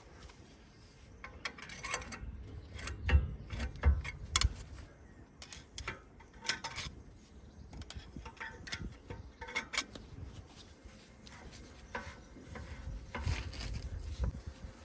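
Irregular metallic clicks, ticks and knocks of hand-tool work on a car's handbrake mechanism, with a few heavier knocks a few seconds in and again near the end.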